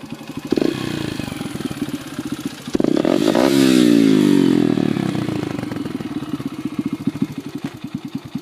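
Yamaha TT-R125 dirt bike's four-stroke single with a Pro Circuit exhaust, idling and then revved: the revs step up about half a second in, rise sharply about three seconds in, then fall slowly back to a pulsing idle.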